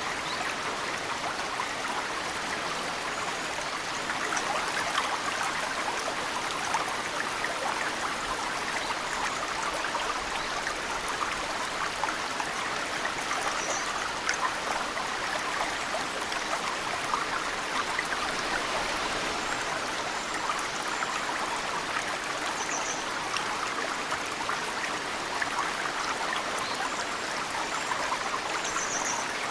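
A mountain stream flows steadily, with a dense patter of snowmelt drips falling into the water. A small bird gives a short high chirp three times: about halfway through, about three-quarters through, and at the very end.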